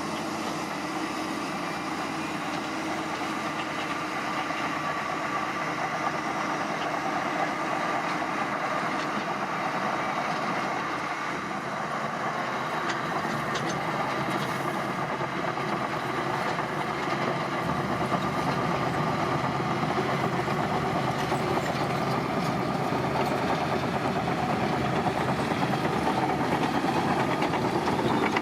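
Diesel engines of heavy earthmoving machinery running steadily, growing somewhat louder in the second half.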